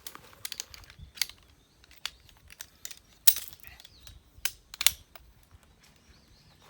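Irregular sharp clicks and light knocks, about a dozen spread over several seconds, the loudest a little past the middle.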